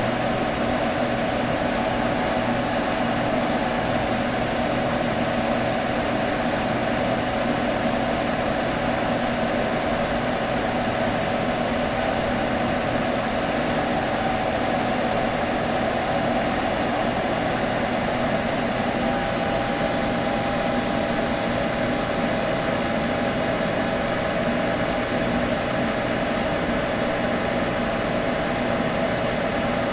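A computer humming: a steady whir of cooling fans with a constant hum, unchanging throughout.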